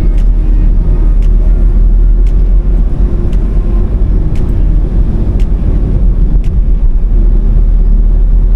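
Car driving, a loud steady low rumble of road and engine noise, with sharp ticks about once a second.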